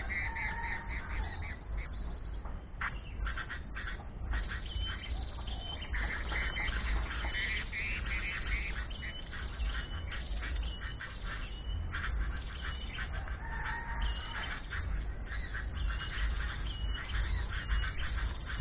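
Birds giving repeated harsh squawking calls over a low, steady rumble.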